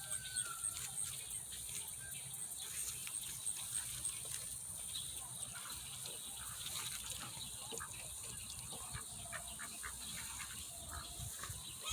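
Faint calls from ducks, with many soft scattered ticks over a steady hiss.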